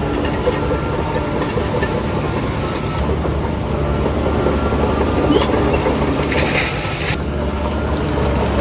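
Heavy diesel earthmoving machinery running steadily under a low engine drone, with a short hiss about six and a half seconds in.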